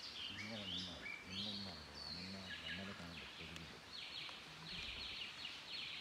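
Forest birds calling and chirping in high notes, with a run of quickly repeated high notes in the second half. Faint low voices murmur underneath for the first few seconds.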